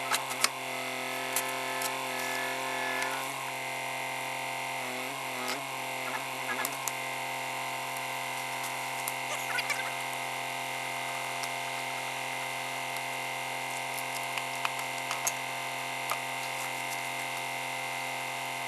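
A steady, even hum made of several held tones, with scattered light clicks; the tones waver briefly about three to seven seconds in.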